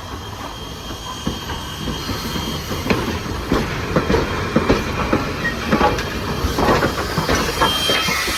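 Railroad cars rolling past, their wheels clacking over the rail joints in a repeated knocking rhythm that grows louder about two seconds in, over a steady rumble, with brief faint wheel squeal.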